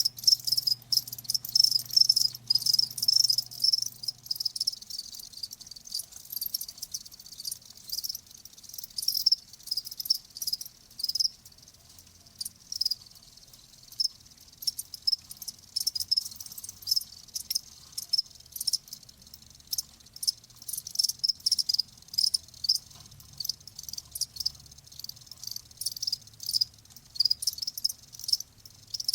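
Crickets chirping continuously in rapid, overlapping pulses, high-pitched.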